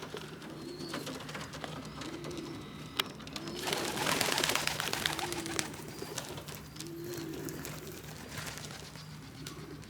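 Racing pigeons cooing, a low coo repeated about once a second. About four seconds in, a burst of rustling and rattling lasts some two seconds.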